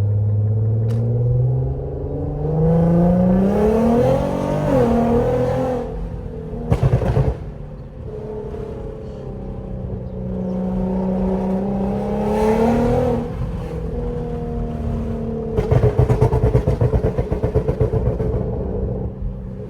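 Car engine and exhaust accelerating: the engine pitch climbs steadily, drops as if on a gear change about four or five seconds in, then climbs and drops again. A brief loud burst comes about seven seconds in, and a fast pulsing rumble lasts a few seconds near the end.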